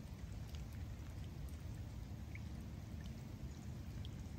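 Rain falling steadily on a lake's surface, with scattered small drop ticks over a constant low rumble.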